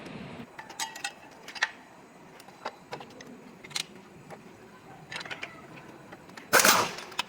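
Scattered sharp metallic clinks and taps of tools and parts being handled during truck assembly, after a steady hum cuts out just after the start. Near the end comes a short, loud hissing burst.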